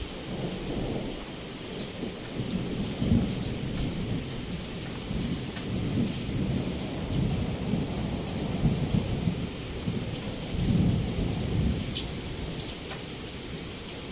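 Rolling thunder rumbling over heavy rain pouring against a window. The rumble swells several times and fades near the end, with the steady hiss of the rain underneath.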